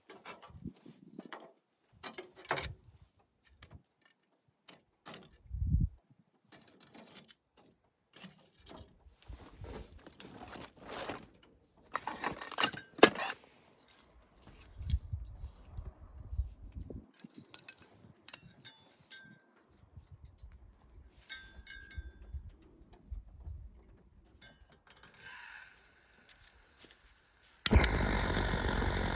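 Metal camping gear being handled: scattered clinks and knocks with a few short metallic rings. Near the end a butane gas torch lights with a sudden loud, steady hiss.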